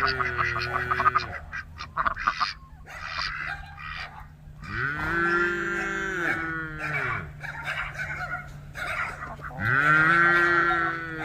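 Farm animal calling three times, each a long drawn-out call that rises and then falls in pitch, over a steady low hum.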